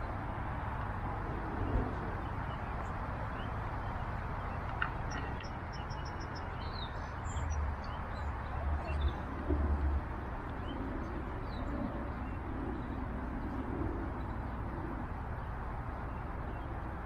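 Garden ambience: birds chirping briefly now and then over a steady outdoor hiss, with a few low rumbles in the middle.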